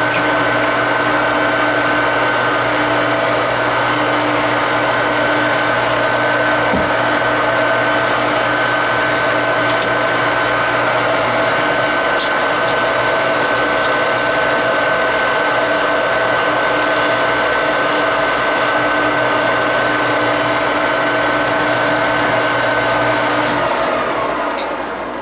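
Metal lathe running steadily with a hum and a high steady tone while taking a finishing cut on the coupler. Near the end it is switched off and spins down, the tone sliding lower as the sound fades.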